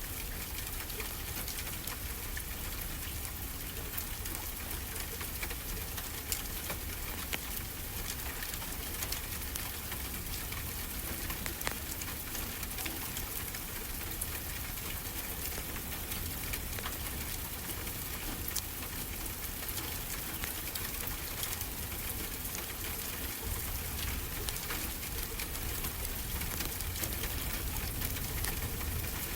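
Wood fire crackling with many small, irregular pops over a steady rush of ocean surf.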